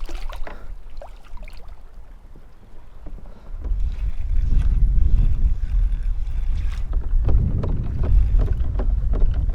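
Gusting wind buffeting the microphone on a kayak, a low rumble that swells up about a third of the way in and stays strong, with scattered small knocks and splashes over it.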